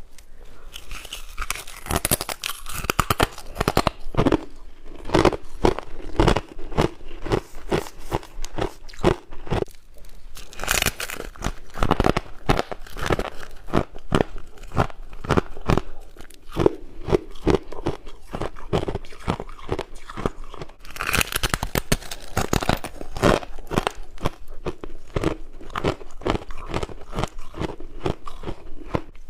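Frost ice being bitten and chewed close up. Three crisp, crackly bites come near the start, about ten seconds in and about twenty seconds in, each followed by a run of steady crunching chews at about two a second.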